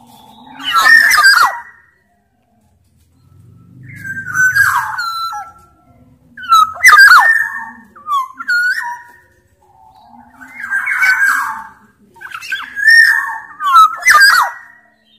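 Black-naped oriole (Sumbawa kepodang) calling repeatedly: about eight short whistled and harsh phrases, one every second or two.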